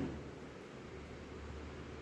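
Steady background hiss of room tone, with a brief low thump right at the start.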